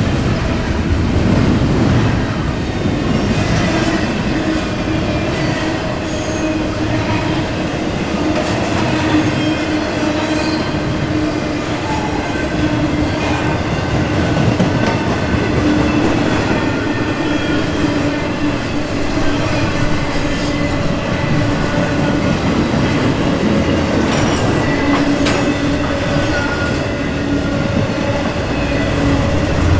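Double-stack intermodal freight cars rolling past close by, steel wheels rumbling on the rails with a steady whine over the top.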